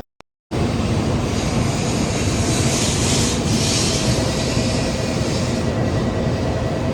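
Shinkansen train running at speed: a loud, steady rail rumble with a hiss that swells about three seconds in. It starts after a brief cut-out at the very beginning.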